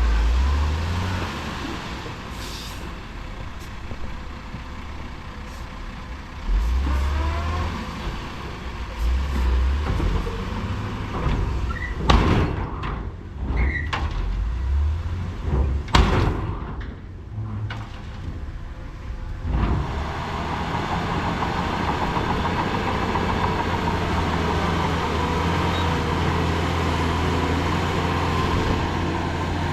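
Heavy diesel earthmoving equipment running, its engine rising and falling, with several sharp metal bangs about halfway through, after which the engine settles into a steady drone.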